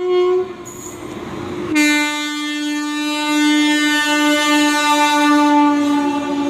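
Train horn: a short toot, then about two seconds in a long, steady blast that holds on.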